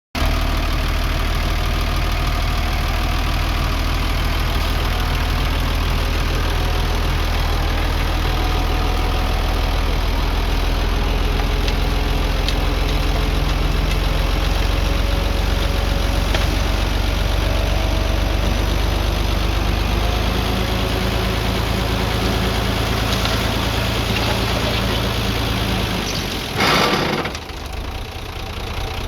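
Heavy diesel engine of earthmoving equipment running steadily at low speed. Near the end there is a brief, loud burst of noise, after which the engine sound is somewhat lower.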